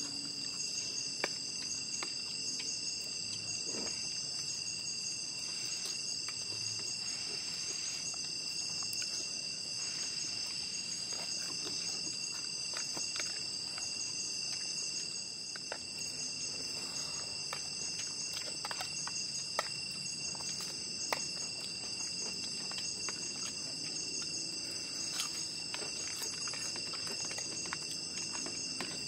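Steady chorus of insects such as crickets, several high-pitched trills held at once without a break, with scattered light clicks and taps over it.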